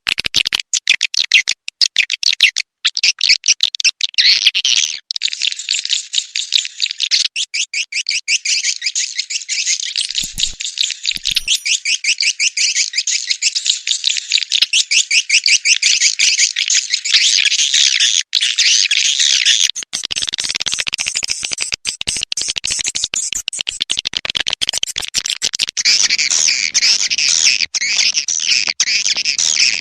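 Swiftlets calling: a dense, continuous stream of rapid, high chirps and twitters with no pauses.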